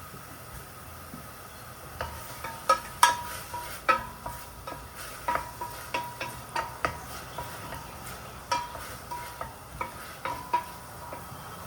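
A utensil stirring in a bowl, clinking against its side in irregular ringing taps that begin about two seconds in.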